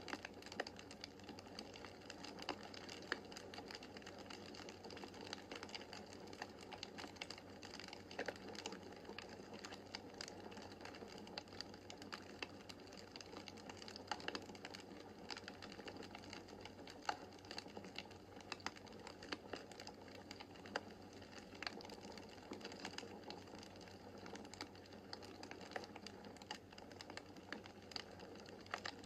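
Wood fire burning in a fireplace: a soft steady hiss of flame with dense, irregular crackles and sharp pops of the burning logs.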